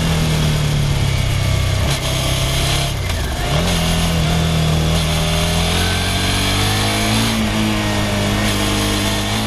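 Suzuki SV650's 645 cc V-twin engine running under way, with wind noise. Its pitch drops about two seconds in, jumps back up a second and a half later, then climbs slowly as the bike gathers speed.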